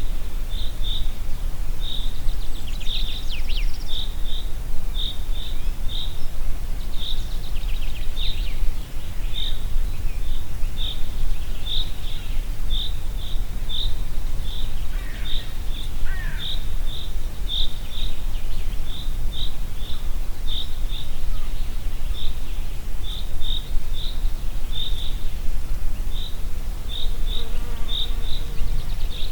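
Wind blowing through a forest, a steady low rumble, under a short high chirp repeated about one and a half times a second throughout. A few other bird calls come in briefly about three seconds in and again about halfway through.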